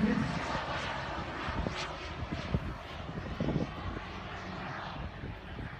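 Turbine engine of a radio-controlled model jet flying past, a steady jet rush that fades over the first few seconds as the aircraft moves away.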